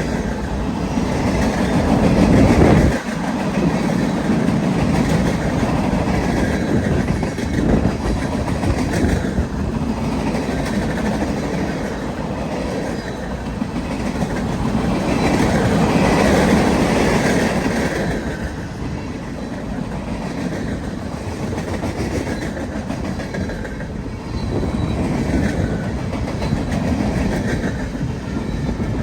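A train rolling past at close range, its rail cars' wheels clacking over the rail joints in a steady rhythm over a continuous rumble. The sound swells and eases as the cars go by, with a sudden drop in loudness about three seconds in.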